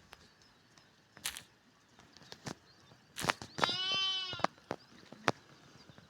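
A sheep bleats once, one call a little under a second long, about halfway through. A few scattered knocks and clicks sound around it.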